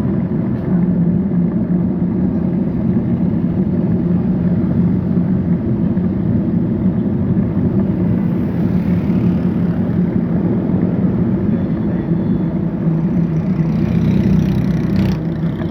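Steady rumble of motor-vehicle traffic engines on a road, heard from a bicycle riding along it.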